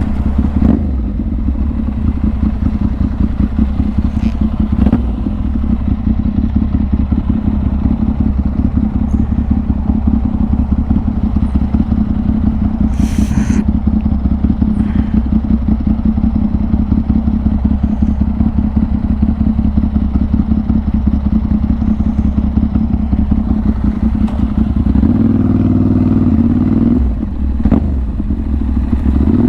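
Motorcycle engine running steadily under way, heard from the rider's helmet. Its note changes a few seconds before the end and climbs in pitch as the bike speeds up.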